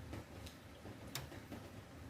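Rain dripping: scattered, irregular drops ticking on a hard surface, with one sharper drop about a second in.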